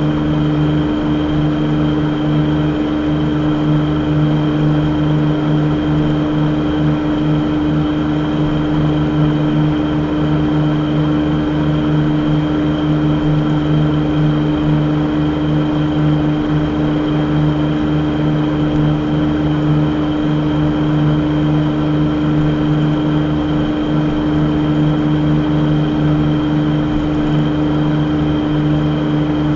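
Steady engine and road noise inside a moving car, a constant drone with a fixed hum that does not change pitch.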